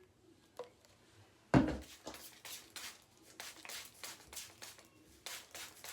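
A knock about a second and a half in, then a plastic spray bottle of diluted apple cider vinegar squirted rapidly onto the scalp: a quick run of short hissing sprays, several a second.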